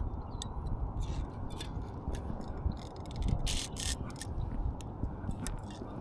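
Bait-finesse baitcasting reel's drag clicking in irregular runs as a big salmon pulls line off the spool, over a low steady rumble.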